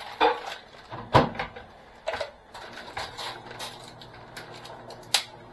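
Kitchen items being handled on a counter: scattered knocks and clatters, the loudest about a second in and another sharp knock near the end.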